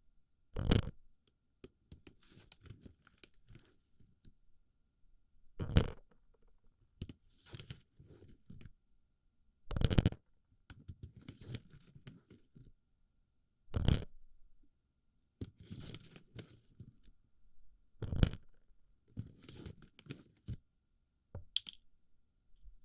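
Small plastic BB pellets pushed and rolled into a microphone's ear, close-up: a sharp loud crunch about every four seconds, each followed by quieter crackling and rustling as the pellets shift.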